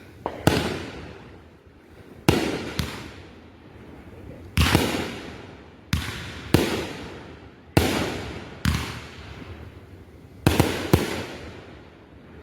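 Consumer aerial fireworks going off: about a dozen sharp bangs at uneven intervals, some in quick pairs, each fading out over about a second.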